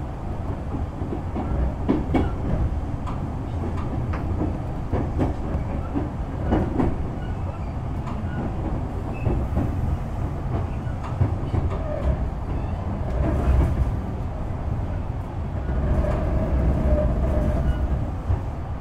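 A Kintetsu 6020-series electric train running along the track: a steady low rumble of wheels on rail, with occasional clicks as the wheels pass over rail joints.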